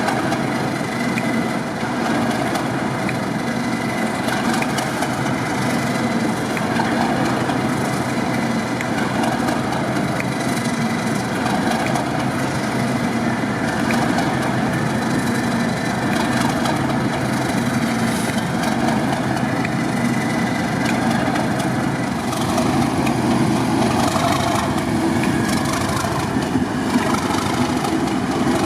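Train engine running steadily at a constant level, with a faint steady hum through it.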